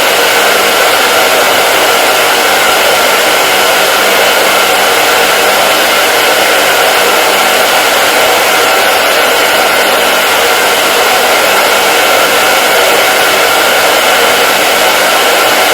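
Hair dryer running continuously with a steady, unchanging rushing hiss of blown air and motor hum.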